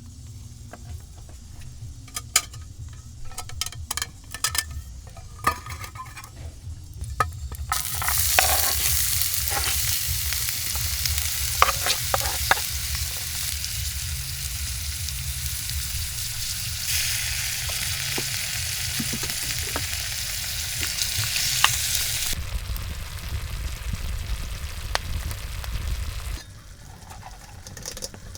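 Food frying in hot oil over a campfire. Scattered clicks and taps come first, then a loud sizzle starts suddenly about eight seconds in and eases off at around twenty-two seconds.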